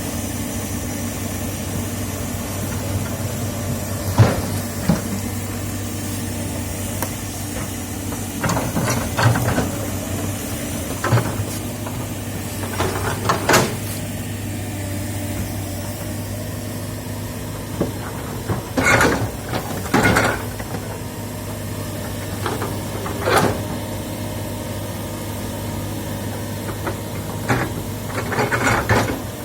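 Komatsu hydraulic excavator's diesel engine running steadily under load, with scattered short knocks and cracks from the machine at work.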